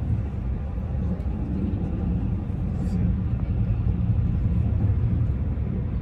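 Keihan electric train running, heard from inside the carriage: a steady low rumble of wheels on the track and the running gear.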